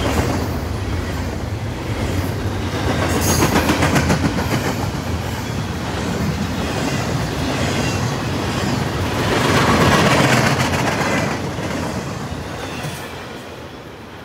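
Freight train of double-stack container well cars rolling past close by: steady wheel-and-rail noise with clickety-clack from wheels crossing rail joints. It swells twice, then fades near the end.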